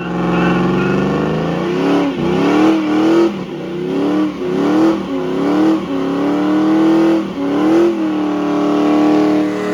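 Small motorcycle engine, plausibly a pit bike, revving hard: its pitch climbs and drops sharply about seven times, then holds a steadier note from about eight seconds in.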